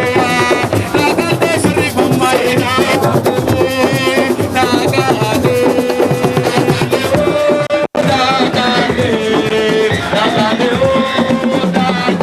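Music of fast hand drumming with singing over it. The sound cuts out for an instant about eight seconds in, then carries on.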